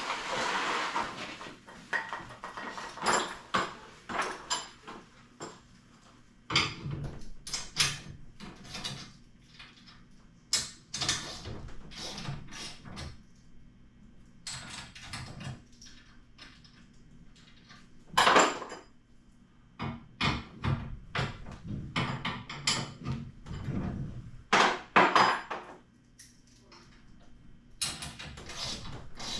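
Irregular clanks, clicks and knocks of tools and metal garage door hardware being worked on during a torsion spring replacement, with a couple of louder strikes.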